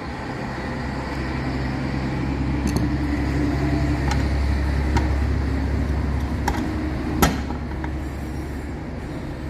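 A steady low motor hum that swells over the first few seconds and eases off near the end, with several sharp metallic clicks of parts being handled.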